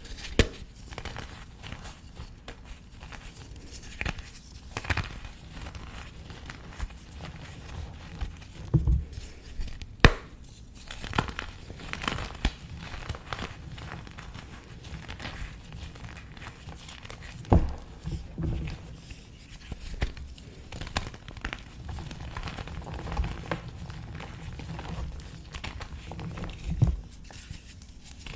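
Pieces of dyed gym chalk being crushed and crumbled by hand: a steady run of irregular crunching and crackling, with a few louder sharp snaps, the strongest about ten seconds in and again past the halfway point.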